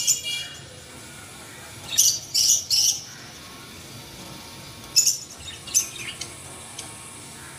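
Small birds chirping in short high-pitched bursts: a quick cluster about two seconds in, another about five seconds in, then a few fainter chirps, over a steady low background hiss.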